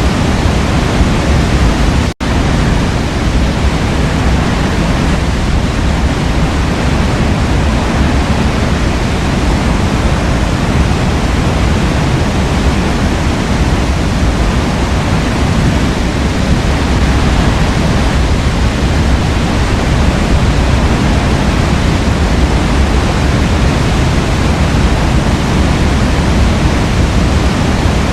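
Forest waterfall rushing steadily as a dense, even roar of water, strongest in the low end. The sound breaks off for an instant about two seconds in.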